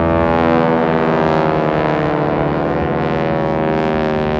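Piston-engined propeller warbirds flying past low, their engines and propellers droning loudly, the pitch sliding down as they go by.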